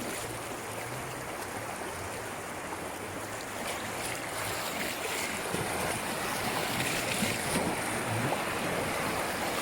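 River current rushing around a raft running downstream, a steady noise that grows a little louder about four seconds in.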